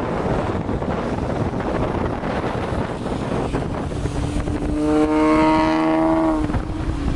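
Wind and road noise, then a straight-piped V6 exhaust comes up as the car pulls, its note rising slowly in pitch and loudest about five to six seconds in, before dropping away suddenly near the end as the throttle lifts.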